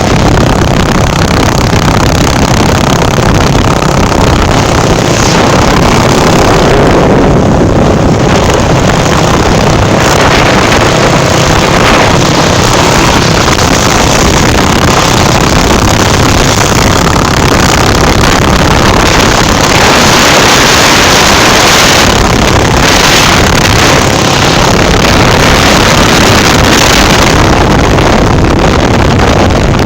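Loud, steady engine noise mixed with heavy wind rush on the microphone, as from a motorcycle under way.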